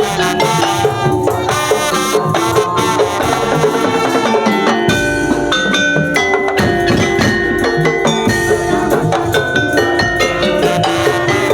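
Percussion-heavy music: drums and wood-block knocks with tuned mallet-percussion notes over held melodic tones.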